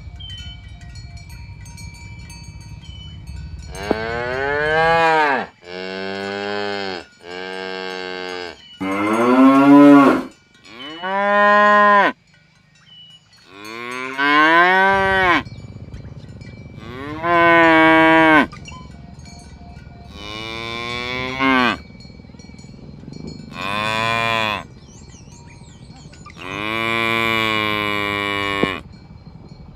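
Cattle mooing again and again: about ten long calls of a second or two each, every one rising and then falling in pitch.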